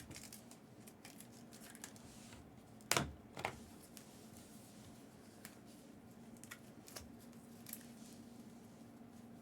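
Faint handling of trading cards and their packaging: light rustling and scattered small clicks, with two sharper clicks close together about three seconds in, over a faint steady hum.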